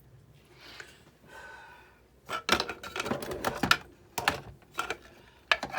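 Parts of a Big Shot die-cutting machine clicking and knocking as they are handled and fitted back together. The clicks come in a quick irregular run from about two seconds in.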